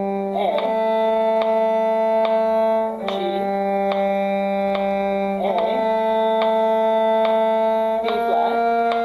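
Bowed strings holding long notes of a G harmonic minor scale over a steady low G drone, moving to a new note about every two and a half seconds with a brief slide at each change, with a steady ticking beat underneath.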